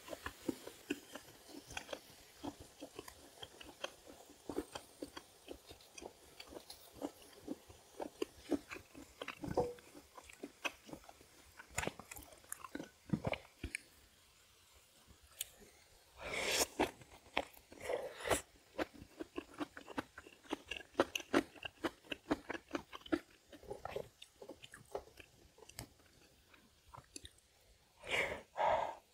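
Close-miked chewing and crunching of food, with many small wet clicks and crunches. A louder run of crunching comes about halfway through, and another comes just before the end.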